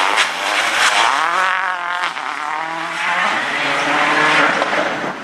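Rally car engine at full throttle, its pitch climbing through the revs, dropping at a gear change about two seconds in, then holding high revs, with tyre noise on the stage surface.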